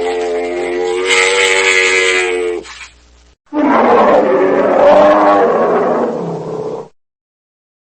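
Two long animal calls, each about three seconds: the first holds one steady pitch, the second is rougher and falls in pitch. The calls cut off abruptly, with dead silence between clips near the end.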